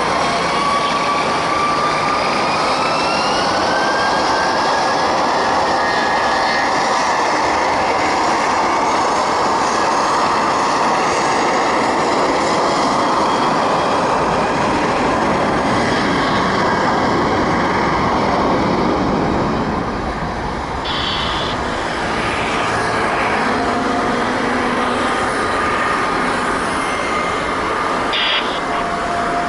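Airbus A320 taking off, its IAE V2500 jet engines running at takeoff power: a loud steady rush, with a whine that rises in pitch during the first few seconds.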